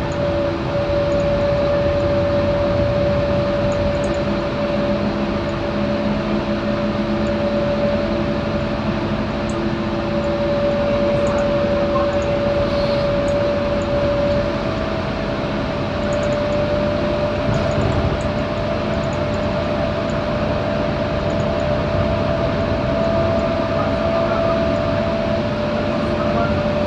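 Scania K230UB single-decker bus running on the move, heard from on board: a steady drivetrain whine with engine drone. The whine steps up in pitch about halfway through and drops back near the end as the bus changes speed.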